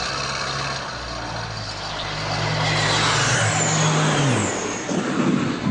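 An aircraft engine flying past: a steady drone that grows louder, then drops in pitch as the plane passes.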